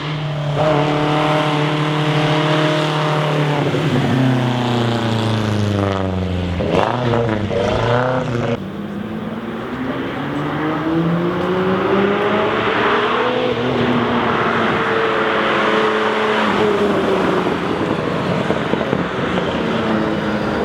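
Sports car engines: one holds a steady note, drops in pitch, then is revved up and down quickly several times. About eight seconds in the sound changes abruptly, and an engine note climbs slowly and then falls away, as a car accelerating past would.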